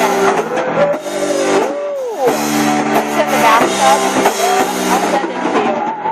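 Live rock band playing an instrumental passage: guitar and drums, with held notes that bend in pitch, one swooping up and back down about two seconds in.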